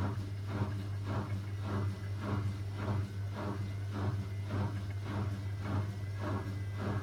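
Zanussi ZWC 1301 washing machine's drum turning at low speed, the motor humming steadily and the wet load swishing round nearly twice a second. The machine has detected an unbalanced load and is tumbling it to even it out before spinning.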